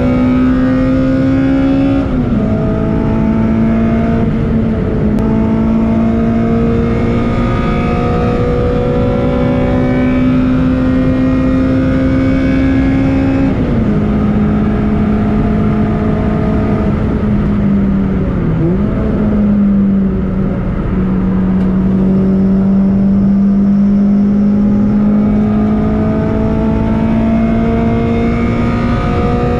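Toyota Corolla T-Sport race car's four-cylinder engine running hard on the road, its pitch climbing slowly and then dropping sharply at each gear change, several times.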